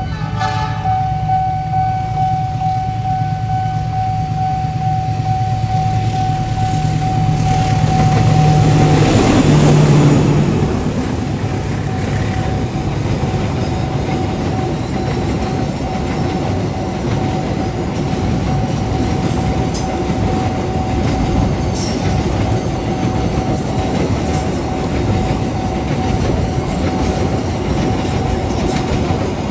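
Diesel locomotive hauling a container freight train approaches and passes close by, its engine drone loudest about nine to ten seconds in. The container wagons then roll past in a steady rumble with the clickety-clack of wheels over the rail joints. A steady high tone sounds throughout.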